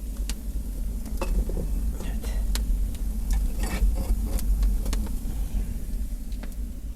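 Wind rumbling on the microphone, with a scattering of sharp clicks and knocks at irregular intervals.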